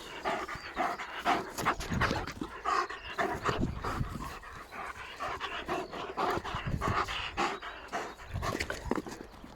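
East European Shepherd dog panting rapidly, about two to three breaths a second.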